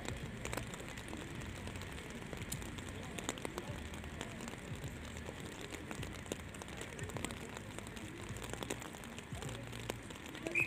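Rain pattering: scattered sharp drop ticks over a steady hiss.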